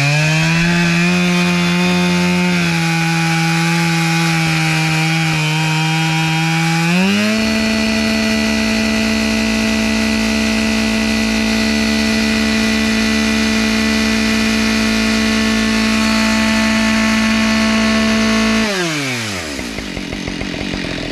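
Chainsaw running at full speed while cutting wood. Its pitch steps up about seven seconds in, holds steady, then winds down and stops near the end.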